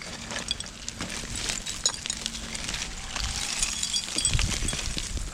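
Digging in river-bank dirt and roots: scattered small scrapes, clicks and light clinks, with a few low thumps a little after halfway.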